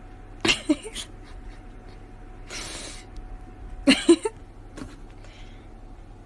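Short, sharp animal sounds in two clusters, about half a second in and again about four seconds in, with a breathy hiss between them.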